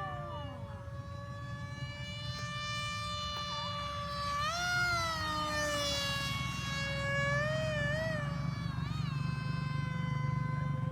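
RC model airplane's motor and propeller whining steadily in flight, the pitch swinging up and back down about four seconds in and wobbling again twice near the end as the throttle changes.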